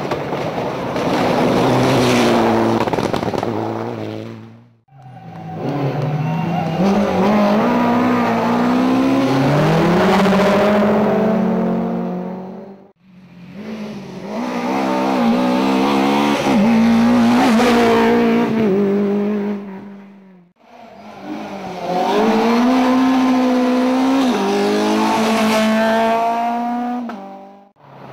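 Rally cars driven hard on a special stage, heard in four separate passes that each cut off abruptly: engines revving high, pitch dropping at gear changes and climbing again.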